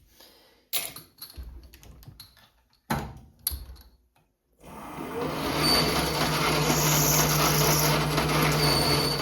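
A few knocks and clatters of metal parts and tools being handled, then a metal lathe running steadily under load while boring out the centre of a metal workpiece, with a low hum and a high whine, cutting off suddenly near the end.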